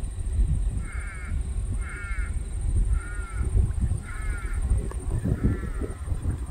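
A bird calling five times, about once a second, over a low rumble.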